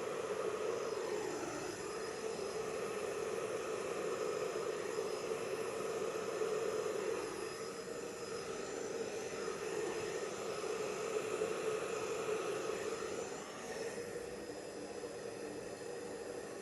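Handheld hairdryer running steadily, blowing out poured acrylic paint on a canvas. Its pitch dips briefly twice, and it is a little quieter near the end.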